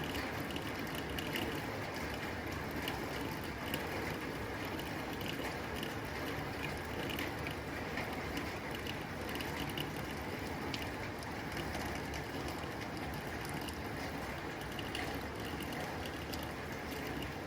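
Steady rain on a tin roof: an even wash of rainfall with many small, sharp taps of drops striking the metal.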